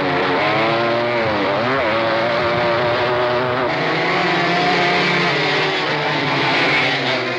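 Several flat-track racing motorcycle engines running hard together, their pitch dipping and climbing as the bikes pass and change gear.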